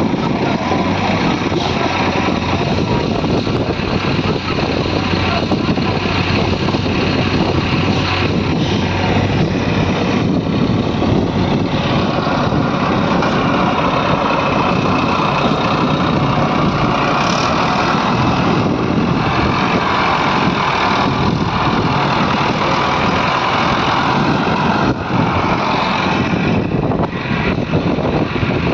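Diesel engines of a JCB 3DX backhoe loader and tractors running steadily and loudly while the backhoe loads soil into the trolleys, with the engine note shifting as the machines work.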